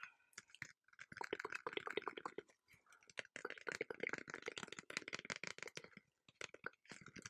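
Rapid, close-miked clicking in two quick runs with a short pause between, a fast stream of sharp little clicks.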